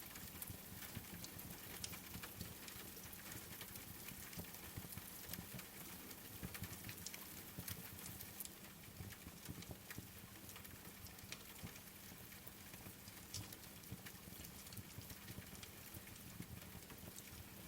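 Steady rain pattering together with a wood fire crackling in a fireplace: a constant soft hiss dotted with frequent, irregular sharp pops and clicks.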